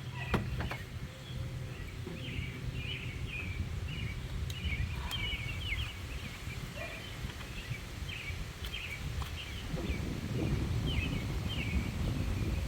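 Small birds chirping in quick series of short, high notes, over a steady low outdoor rumble that grows louder and rougher near the end.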